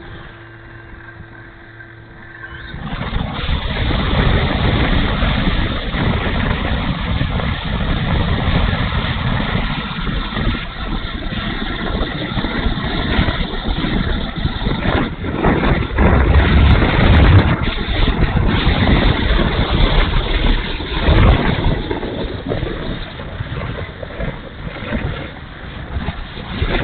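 Strong gusty wind buffeting the microphone, rising suddenly about three seconds in, then surging and easing in uneven swells with a heavy low rumble.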